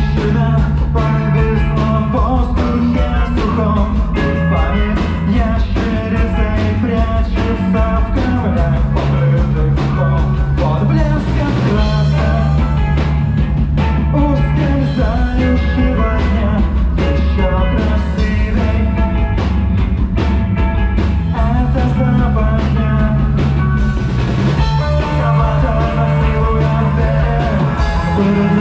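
Rock band playing a song live, with drums, held bass notes that change every few seconds, and guitar lines over them.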